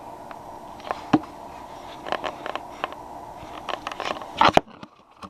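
Clicks, light knocks and rustling from handling a cream cheese container as it is opened and checked, over a steady hum that cuts off suddenly near the end.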